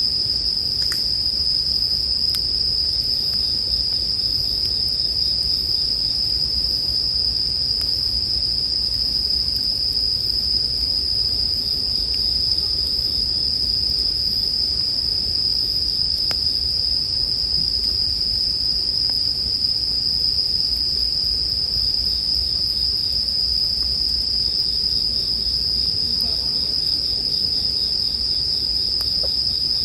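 Bell crickets (suzumushi) singing, a steady high-pitched ring that never breaks off, with a few faint crackles from a campfire.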